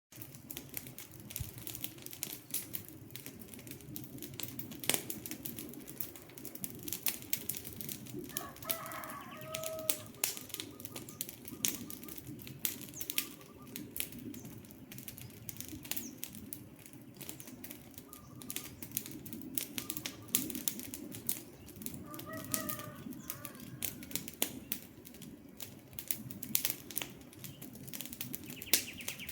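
Wood fire crackling, with frequent sharp pops and snaps over a steady low rush of flames. A bird calls briefly twice, about nine seconds in and again about twenty-two seconds in.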